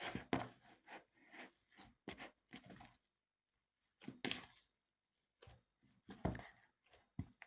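Kitchen work sounds during hamburger making: a string of irregular knocks and short scrapes, like utensils or a knife against a board, with no steady rhythm.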